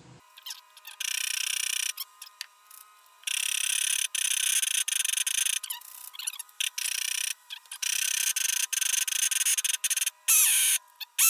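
Hyper .21 nitro RC engine being cranked over in repeated rasping bursts of one to two seconds, stopping and starting, as it is being started; it has not yet caught.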